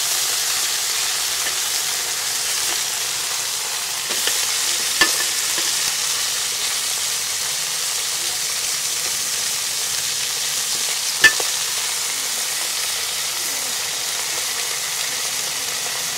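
Meat frying in oil in an aluminium pan, a steady sizzle while it is stirred with a metal spoon. Two sharp clicks of the spoon against the pan stand out, about five seconds in and again near eleven seconds.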